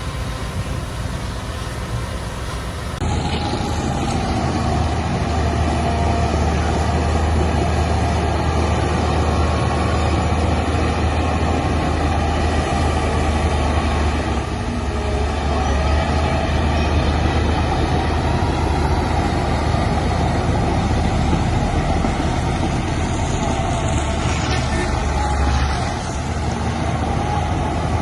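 Heavy diesel engine of earthmoving machinery running steadily under work, with a deep low hum. It gets louder suddenly about three seconds in.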